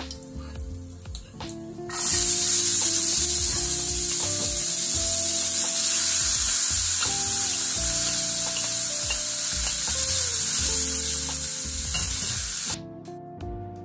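Chopped asparagus dropped into a hot frying pan with sautéed garlic, sizzling loudly as it is stirred with a spatula. The sizzle starts abruptly about two seconds in and cuts off suddenly near the end.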